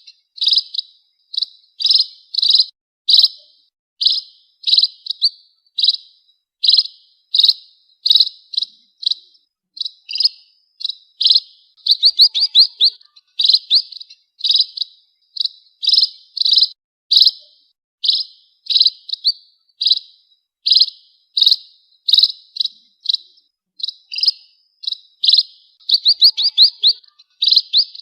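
Pipit (emprit) birds chirping: a continuous run of short, high chirps about two a second, some coming in quick rattling clusters.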